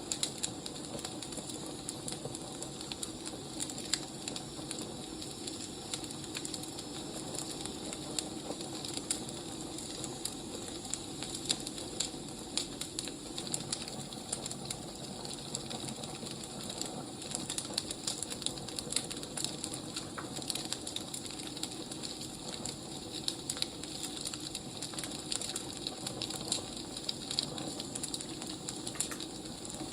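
Wood fire crackling: a steady low rush with frequent small, sharp pops and snaps scattered irregularly throughout.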